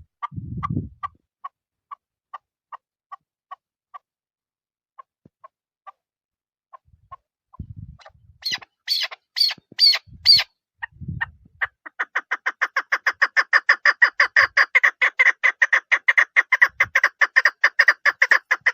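Female chukar partridge calling: a slow series of short clucking notes, a few louder, harsher calls about eight seconds in, then from about twelve seconds a fast, even run of clucks at about five a second that grows louder. A few low thumps come in between.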